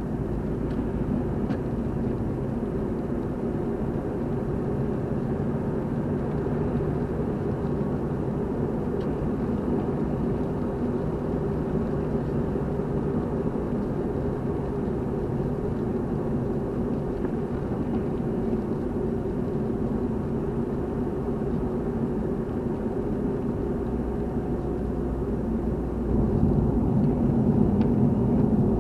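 A car's engine and tyre noise while driving, a steady low rumble that gets louder about 26 seconds in.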